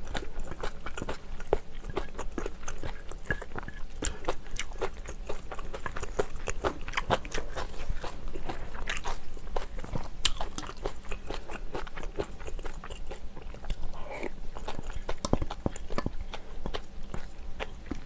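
Close-miked chewing and mouth sounds of a person eating, a dense run of small wet clicks and crunches.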